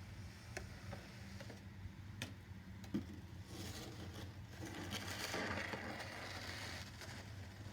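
Snow shovel scraping over pavement while clearing a thin layer of snow: a few knocks, then a longer scrape that swells and fades over about three seconds, over a steady low hum.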